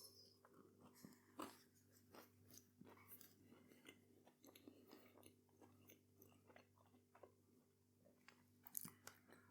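Faint chewing of a bread roll with a breadcrumbed plant-based fish finger: scattered soft mouth clicks and crunches, a few louder ones about a second and a half in and near the end.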